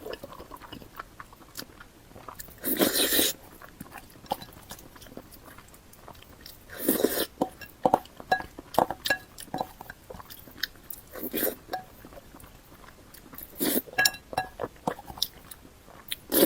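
Close-miked eating with three loud crunchy bites, about three, seven and fourteen seconds in, and chewing and small mouth clicks between them.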